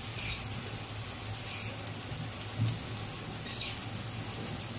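Mutton-and-potato tikkis shallow-frying in butter in a nonstick pan over a low flame: a soft, steady sizzle with light crackles, over a low steady hum.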